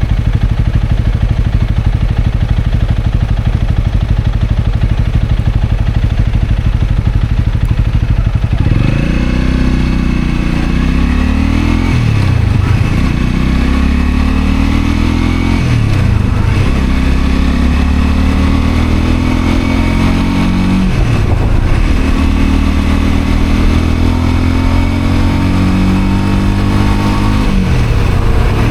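Honda CL250's single-cylinder engine idling steadily, then the motorcycle pulls away about nine seconds in and accelerates, the engine note rising and dropping back with each of several upshifts.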